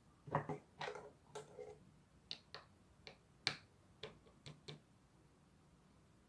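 Slime being handled, squeezed and poked, giving a quick run of sharp clicks and small wet pops. There are about a dozen over four seconds, and then they stop.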